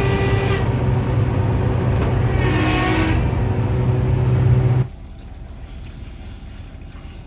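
Komatsu PC1250-8R hydraulic excavator running, a loud steady low drone with a high whine over it that swells briefly. About five seconds in it cuts off abruptly to a much quieter machine hum.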